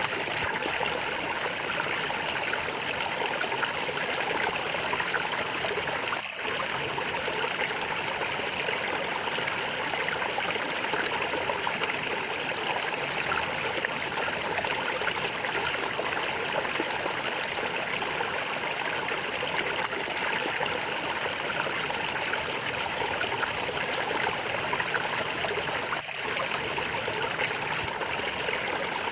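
Flowing water gurgling steadily, with a brief dip in level about six seconds in and again near the end.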